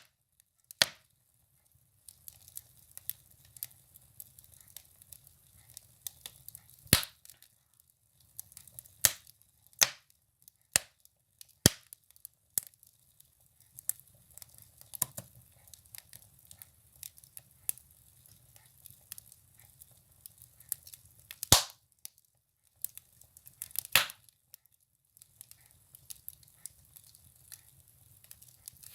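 Firewood burning in a wood stove, crackling with irregular sharp pops and a few louder cracks, over a faint low rumble that comes and goes.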